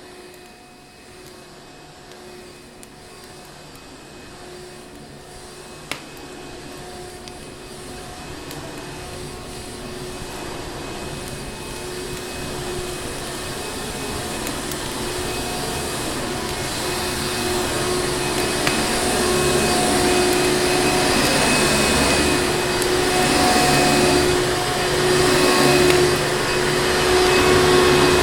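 Vacuum cleaner motor running steadily with a whining hum, growing steadily louder as it fades in. There is a single sharp click about six seconds in.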